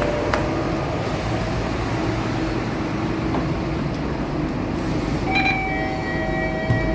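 Scania K230UB single-deck bus running, a steady rumble and hiss of engine and road noise. About five seconds in, a shrill squeal of several steady tones sets in over it and holds near the end.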